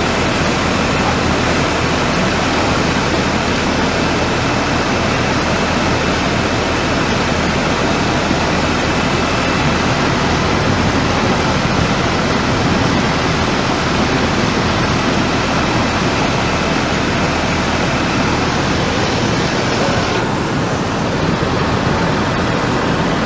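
Loud, steady roar of rushing floodwater. About 20 seconds in, it turns duller.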